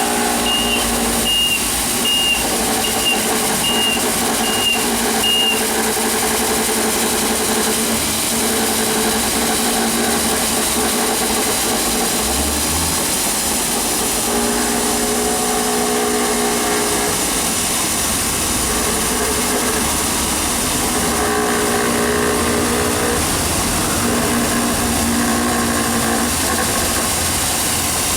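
Multitec Alfa Brava ride-on floor scrubber running with a steady motor hum and whine. For the first five seconds or so its reversing alarm beeps about twice a second.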